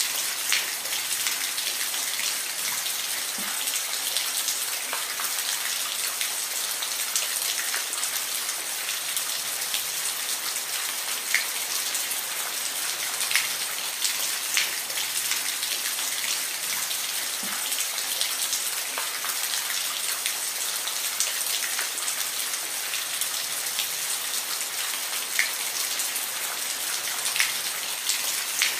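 Steady rain falling, an even hiss with scattered individual drops tapping now and then.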